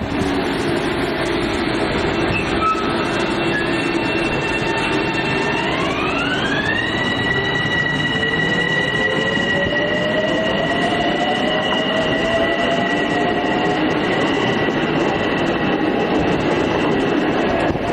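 Long Island Rail Road electric multiple-unit train running over steady rail noise, its traction motors giving a whine of several tones that climbs in pitch together about six seconds in, then a lower tone rising slowly: the train picking up speed.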